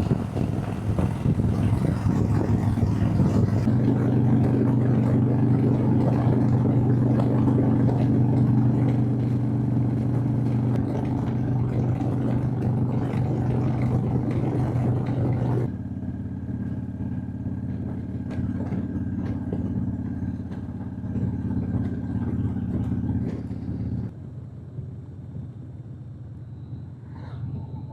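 Harley-Davidson Dyna's V-twin engine running steadily while riding, under a rush of wind. The wind rush falls away suddenly about halfway through, and the engine note drops in level again near the end.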